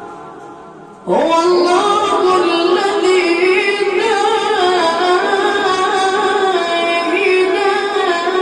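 A child's voice reciting the Quran in melodic chanted style: the end of one phrase dies away, then about a second in a new long phrase begins, held and ornamented with wavering turns in pitch.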